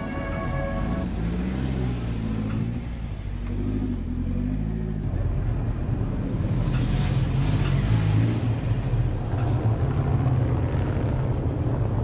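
Car engine running, its note rising and falling over the first few seconds, then holding steady. The tail of a synth music intro ends in the first second.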